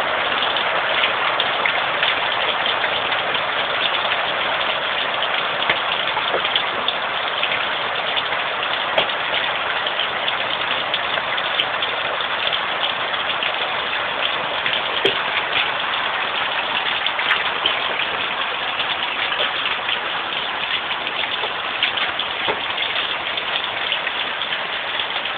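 Heavy rain falling steadily, a dense hiss with many scattered sharp ticks of drops striking hard surfaces.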